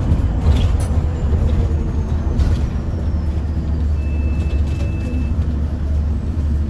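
A London bus's engine and drivetrain running with a steady low rumble, heard from inside the bus, with brief rattles in the first few seconds and a thin high tone for about a second around four seconds in.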